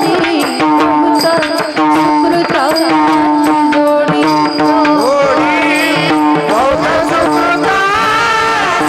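Marathi devotional kirtan music: steady held tones under a wavering melody line, with tabla-like hand-drum strokes throughout.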